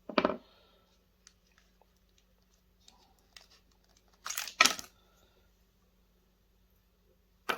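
Plastic and glass parts of a projector's lens unit being handled and pulled apart: a sharp crack at the start, scattered small clicks and taps, then two loud cracks in quick succession about four and a half seconds in and another just before the end.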